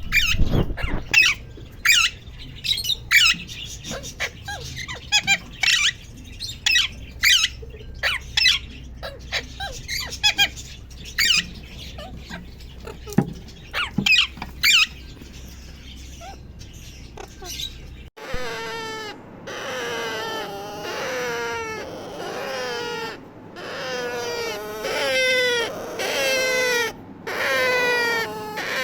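A young Alexandrine parakeet calling: sharp, high squawks and chirps at first, then, after an abrupt change about 18 seconds in, a regular run of falling, whining calls repeated one to two times a second.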